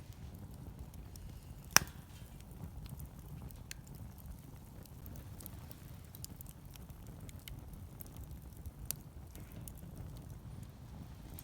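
Wood fire crackling, with scattered small pops over a low steady rumble, and one sharp, loud pop about two seconds in.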